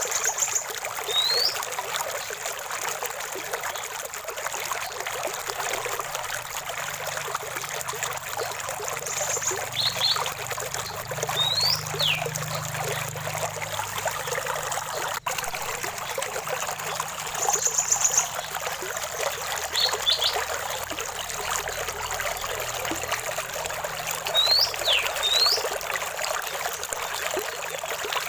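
Running stream water trickling and splashing steadily, with birds calling over it: short rising whistled notes and brief buzzy chirps every few seconds.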